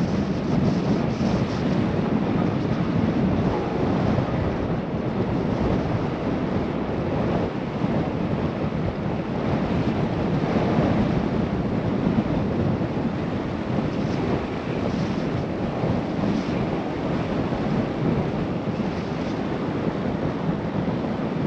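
Steady rush of wind on a GoPro microphone while riding a bicycle, a constant low roar with no break.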